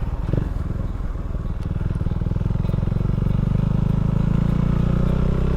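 Can-Am Ryker three-wheeled motorcycle engine running on the move, a steady low engine note that grows a little louder in the second half.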